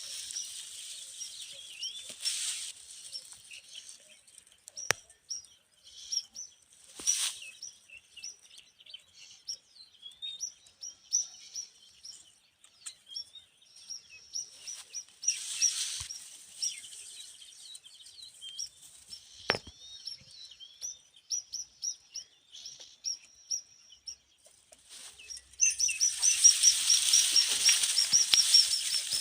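Nestlings chirping: scattered short, high chirps, then a louder run of rapid, evenly repeated chirps near the end.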